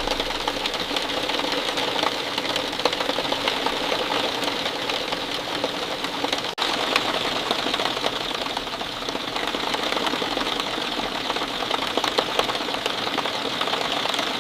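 Steady rain falling, a dense, even patter of countless drops, with a brief break in the sound about six and a half seconds in.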